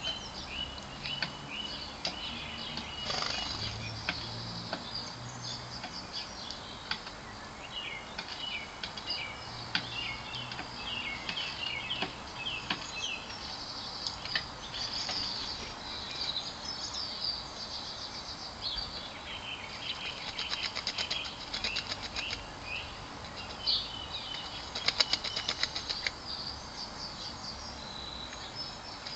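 Small garden birds chirping repeatedly, with bursts of rapid wing-fluttering, the loudest run coming a little before the end.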